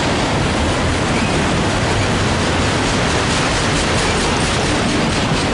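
Freight train of enclosed autorack cars rolling past close by: a steady, loud rush of steel wheels on the rails.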